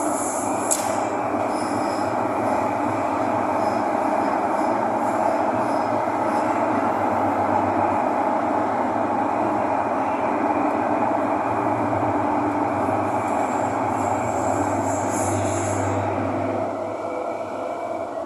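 Thomson-East Coast Line metro train running, heard from inside the car: a steady rumble of wheels on rail, with a sharp click about a second in and brief high wheel squeal near the start and again later on. The noise eases a little near the end.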